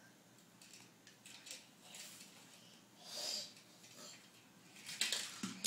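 Faint room tone with a young child's short breathy vocal sound about three seconds in, and a few small knocks or handling clicks near the end.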